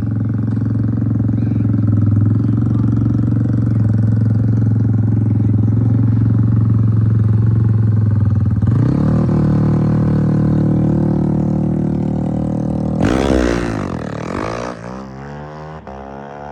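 Drag motorcycle engines held at steady high revs on the start line, then launching about nine seconds in with the pitch climbing as they accelerate. They are loudest as they pass about thirteen seconds in, then fade away with the pitch sweeping down.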